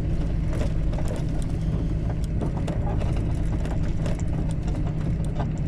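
Truck's diesel engine running steadily, heard inside the cab, with small rattles and ticks over the low hum.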